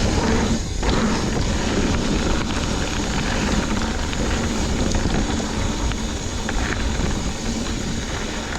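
Wind buffeting the microphone over the rumble and rattle of a mountain bike rolling fast along a dirt trail.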